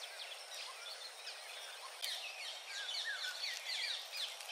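Small birds chirping: many quick, high, falling chirps over a steady background hiss, busier from about halfway through.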